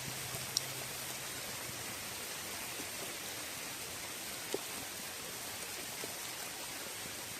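Steady rain shower falling on a lake's surface, a constant even hiss with a few louder single drops heard now and then.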